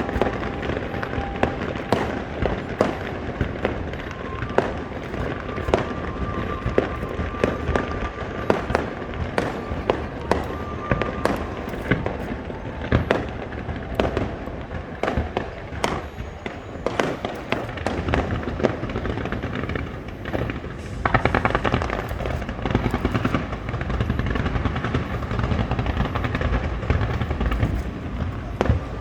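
Fireworks going off in quick succession, sharp bangs one after another, turning into a denser, louder crackling barrage about three-quarters of the way through.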